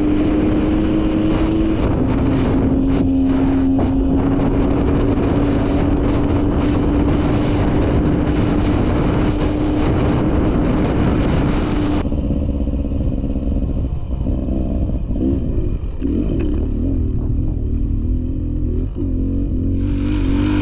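Dirt bike engine running at steady high revs, its note holding with a slight rise. About halfway through the sound changes abruptly, and the revs then rise and fall unevenly.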